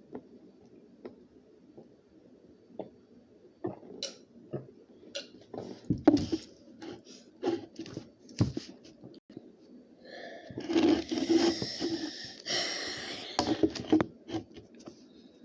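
Snack packaging being handled: scattered clicks and taps, then a few seconds of dense crinkling and rustling about ten seconds in.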